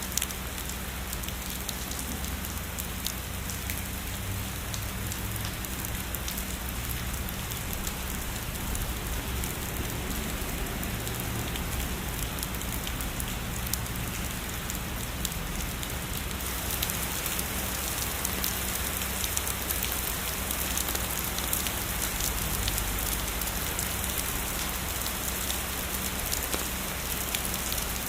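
Heavy rain falling steadily on a surface: a dense, even hiss flecked with many small drop ticks. A little past the middle the hiss turns brighter.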